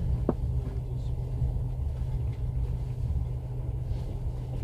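Steady low rumble of a passenger train carriage in motion, with a short squeak near the start.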